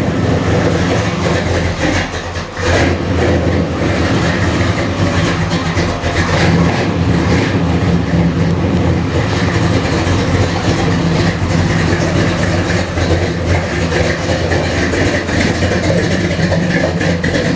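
A 355 small-block Chevy V8 with a Comp Cams Thumpr camshaft, Edelbrock carburettor and Flowmaster mufflers, idling steadily. The level dips briefly about two and a half seconds in.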